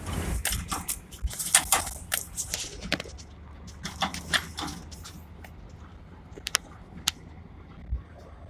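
Irregular knocks and clicks, dense in the first few seconds and then a few isolated ones, over a steady low hum.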